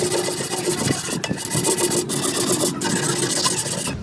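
Steady abrasive scraping, like sanding, filing or brushing, broken by three short pauses and cutting off suddenly at the end.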